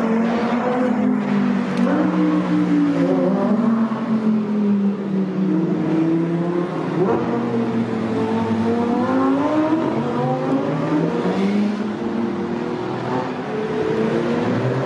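Several sports car and supercar engines driving past on a circuit, overlapping, their engine notes rising and falling as the cars accelerate and lift.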